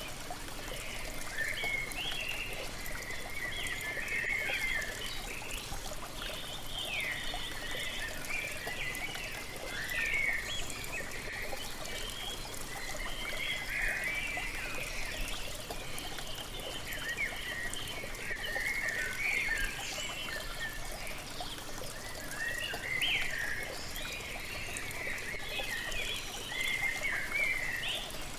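Waterfall water splashing steadily, with a chorus of songbirds chirping and singing over it throughout.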